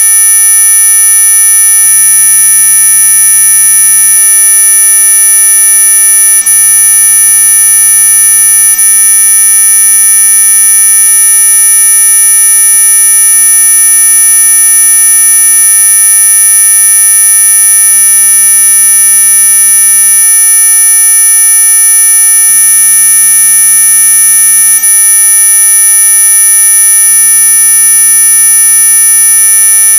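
Synthetic anti-mosquito repellent tone: a loud, steady, unbroken electronic whine made of several fixed tones sounding together, the strongest very high-pitched.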